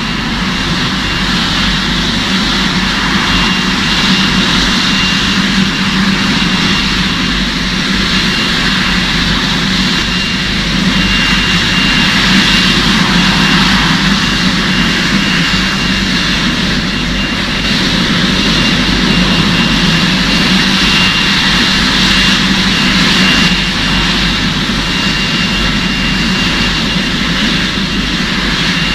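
Propeller motor of a homemade model airplane running steadily, with a high whine over the rush of the propeller.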